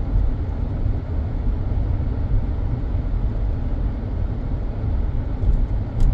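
Steady low rumble of road and engine noise inside a Mazda 3's cabin as it drives along, with a brief click near the end.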